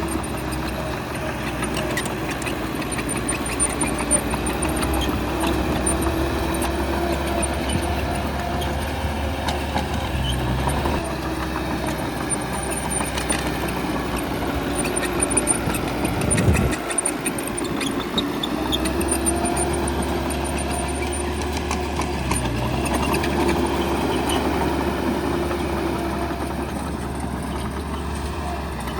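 Heavy diesel engine of a bulldozer running steadily while working, with scattered short clanks. A little past halfway the engine note dips sharply for a moment, then picks back up.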